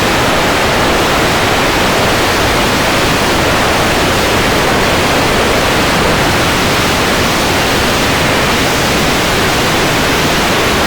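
Loud, steady rushing noise with no breaks or distinct events.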